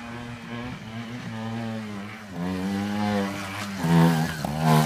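Trials motorcycle engine revving up and down under load as the bike climbs a steep dirt slope, growing louder as it approaches and loudest about four seconds in.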